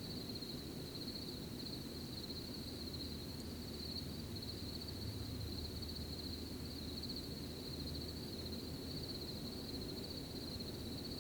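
Steady chorus of crickets chirping in a continuous high trill, over a low, even background rumble.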